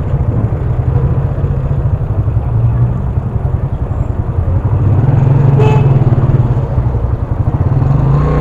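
Motorcycle engine running as the bike rolls through city traffic, heard from the rider's own bike. It grows louder about five seconds in, with a brief click shortly after.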